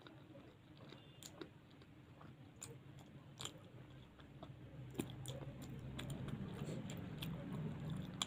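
Close-up chewing of luchi and potato curry: irregular wet mouth clicks and smacks. About five seconds in, a low steady hum comes in and grows louder under the chewing.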